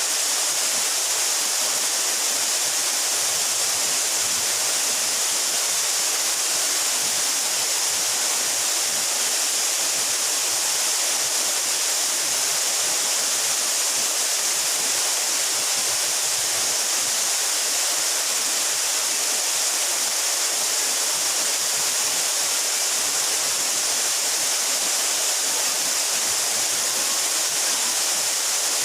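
Mountain waterfall about 12 metres high, water falling and splashing in a steady, unbroken rush with a strong hiss.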